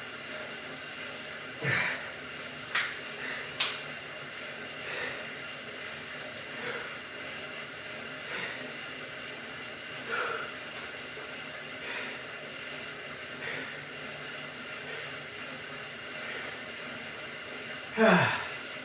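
A man breathing hard during exercise, short exhalations repeating about every second and a half to two seconds over a steady hiss, with a few light clicks early on and a louder falling groan near the end.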